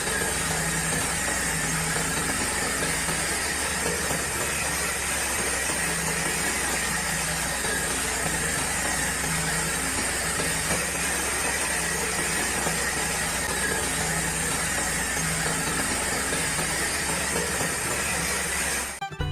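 A small motor running steadily, with a high whine over a low hum that pulses on and off every second or two. It cuts off abruptly at the very end.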